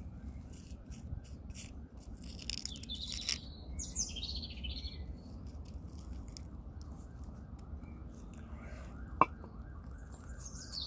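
Wild birds chirping, with short calls and quick falling whistles, over a steady low background rush. One sharp click comes about nine seconds in.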